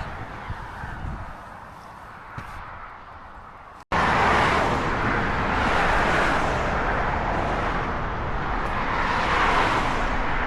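Quiet outdoor ambience, then after an abrupt cut about four seconds in, loud steady wind rush and road noise of a motorcycle being ridden.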